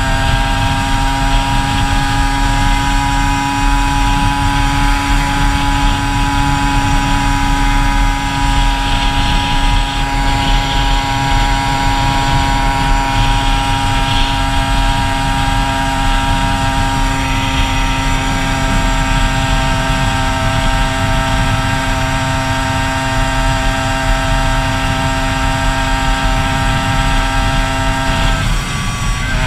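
Kawasaki KB100's two-stroke single-cylinder engine running steadily at cruising speed, heard from the rider's seat with a heavy rush of wind on the microphone. Near the end the engine note wavers briefly and then settles again.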